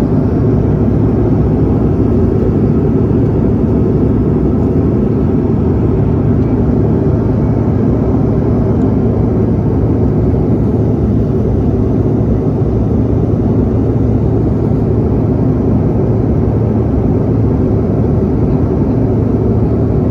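Steady jet engine and airflow noise with a constant low hum, heard inside the cabin of an American Eagle regional jet.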